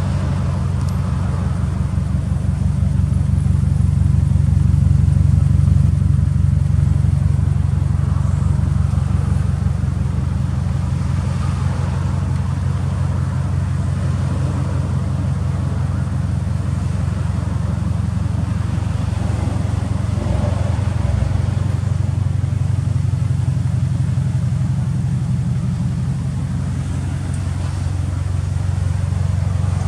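2003 Subaru Impreza STI's turbocharged flat-four engine idling steadily through an aftermarket titanium muffler, with a slight swell in level a few seconds in.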